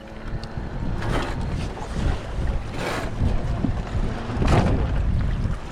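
Wind rumbling on a GoPro action camera's microphone, swelling in gusts about a second, three seconds and four and a half seconds in, over water washing past the hulls of a Tornado sailing catamaran.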